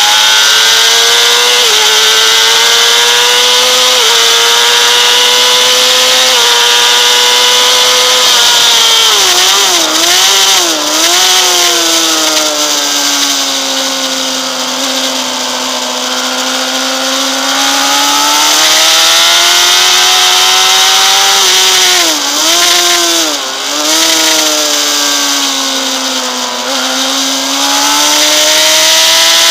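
Honda CBR600RR's inline-four engine at high revs on track, heard from on board: revs climb through gear changes, drop with quick down-and-up swoops about ten seconds in and again a little over twenty seconds in, run lower through a long corner, and rise again near the end. Constant wind rush over the bike sits under the engine.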